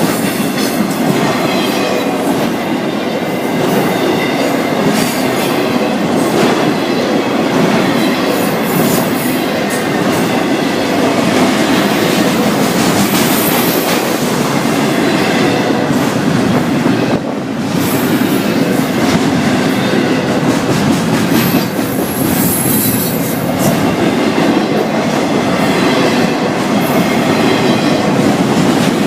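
Florida East Coast Railway freight cars rolling past at slow speed, close by: a steady loud rumble and clatter of wheels on rail, with a faint high wheel squeal running through it.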